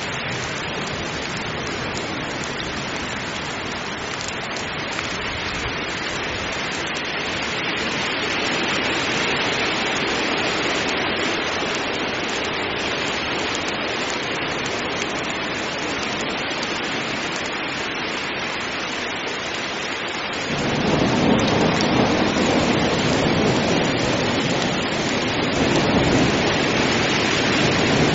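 Heavy rain falling steadily in a thunderstorm. About two-thirds of the way through, a deeper, louder rumble of thunder sets in suddenly under the rain.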